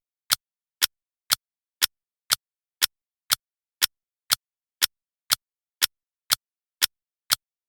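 Steady ticking of a countdown timer's clock-tick sound: short sharp ticks, two a second, evenly spaced and all alike, with silence between them.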